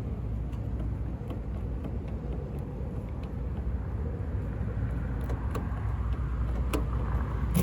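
Faint metallic clicks of a key and pick working in a car door lock cylinder, with a sharper click near the end, over a steady low rumble.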